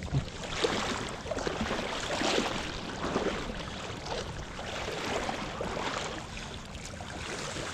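Water splashing and sloshing, with irregular little splashes running on throughout.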